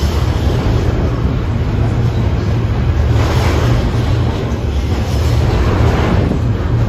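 A train running past close by: a steady heavy low rumble with a rushing noise over it that swells twice, about three seconds apart.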